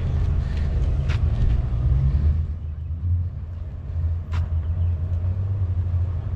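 Car engine running with a steady low rumble, with a couple of faint clicks.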